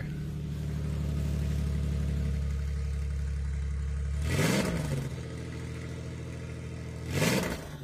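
1988 Chevy Cavalier's 2.8-litre V6 idling, blipped twice, about four seconds in and again near the end, each rev rising and dropping straight back to idle. It sounds a little gurgly.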